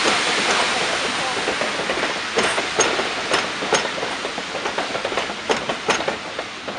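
Train of passenger coaches rolling past on the rails, the rumble fading as the last coach goes by. Through the middle of it comes a string of sharp clicks from the wheels running over rail joints.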